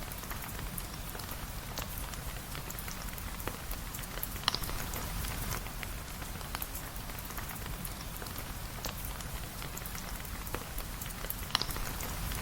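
Steady rain falling, an even hiss full of small drop ticks over a low rumble, with two sharper pops, one about four and a half seconds in and one near the end.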